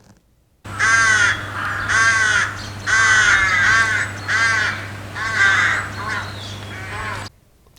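Crows cawing loudly and repeatedly, about six harsh caws roughly a second apart, over a low steady hum. The sound cuts off suddenly near the end.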